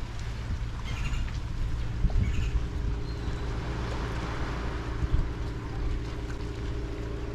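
A boat's motor comes in a couple of seconds in and runs with a steady hum, over a low rumble of wind and water. A bird gives short squawking calls twice before the motor comes in.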